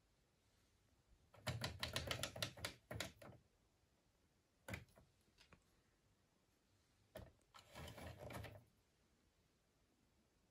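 Bursts of rapid mechanical clicking: a quick run of about two seconds, one lone click, then a shorter run, against near silence.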